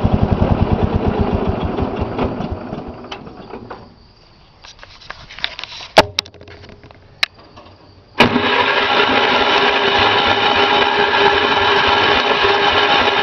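Gravely 810's 10 hp Kohler cast iron engine running, its firing pulses slowing and fading away as it shuts off over about four seconds. After a few sharp clicks it starts right up about eight seconds in and runs steadily.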